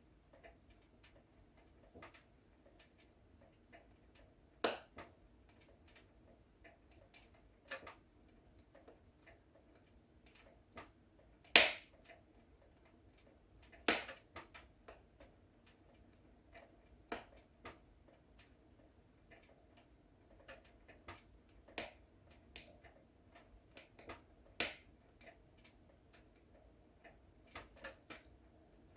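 Wood fire in a fireplace crackling: irregular sharp pops and snaps over a faint low hiss, the loudest pop about eleven seconds in.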